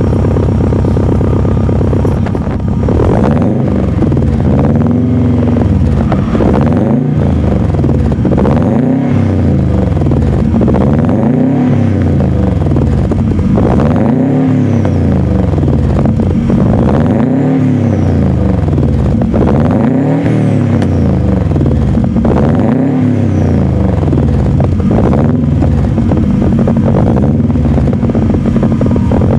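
Car exhaust burbling as the engine idles, then is revved repeatedly. The engine pitch rises and falls about every three seconds.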